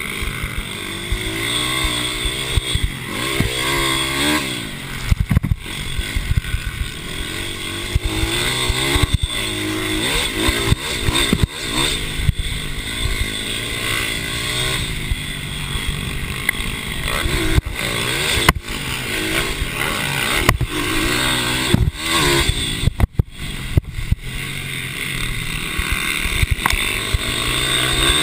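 Several racing mini bikes running on a track, their small engines revving up and falling back over and over as they accelerate and brake, with the sound of more than one bike overlapping.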